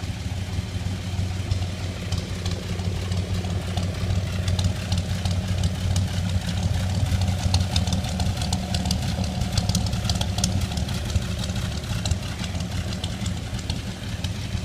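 Chevrolet inline six-cylinder engine with an Offenhauser dual-carburetor manifold idling steadily, with fast light ticking over it through the middle stretch.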